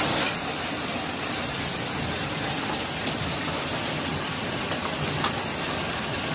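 Heavy downpour of rain and hail, a steady dense hiss with a few sharp ticks scattered through it.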